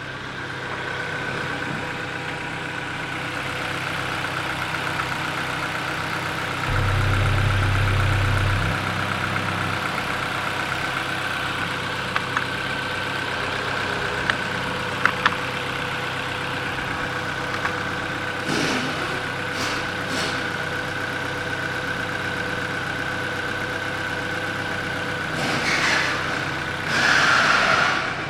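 Ford Focus 2 1.6 HWDA petrol four-cylinder engine idling steadily. A deeper, louder stretch comes about seven seconds in and lasts two seconds, and a few sharp clicks and short noisy bursts come later.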